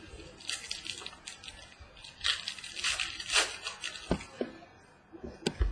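Trading cards and packs being handled: short bursts of rustling and crinkling, with a few light taps.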